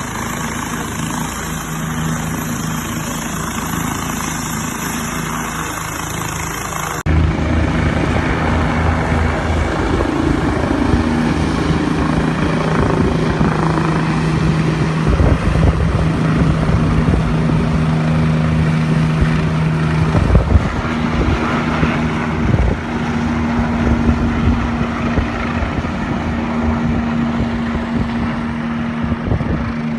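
Helicopter flying nearby, a steady engine and rotor hum that gets suddenly louder and rougher about seven seconds in.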